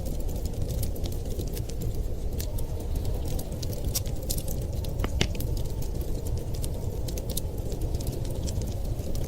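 Wood fire crackling with frequent small pops and one louder crack about five seconds in, over a steady low rush of storm wind.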